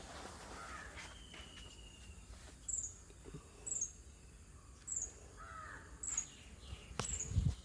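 Birds calling in the open: a short, high, falling chirp repeated about once a second, five times, with a lower call a little after halfway. A low thump near the end is the loudest sound.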